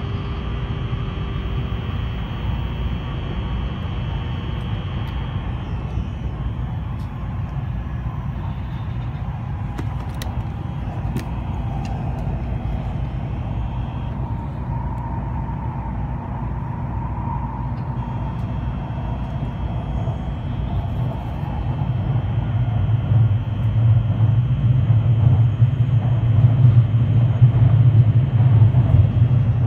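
Kyushu Shinkansen train running at speed, heard from inside the passenger car: a steady low rumble with a hiss over it, growing louder about 21 seconds in.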